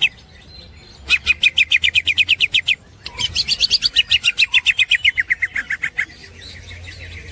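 Green leafbird (cucak ijo) singing its 'ngekek' chatter: two long, rapid runs of about a dozen repeated notes a second, the second run sliding lower in pitch towards its end.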